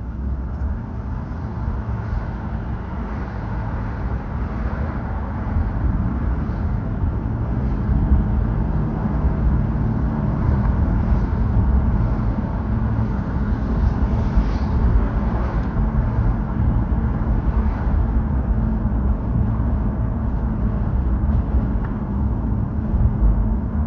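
Steady low rumble of a car in motion, road and engine noise, growing slightly louder after a few seconds.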